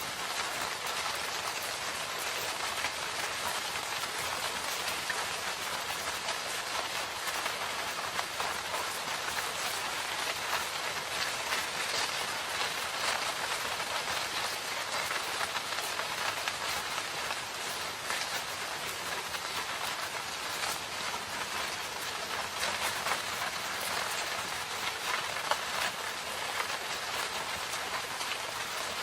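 Steady rain falling, a continuous hiss with many individual drop hits scattered through it.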